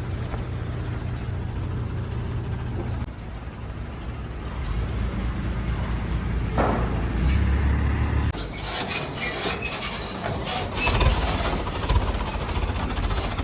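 Heavy truck engine running. Its low hum changes about three seconds in and swells to a deeper rumble later. Sharp clattering knocks come in over the second half.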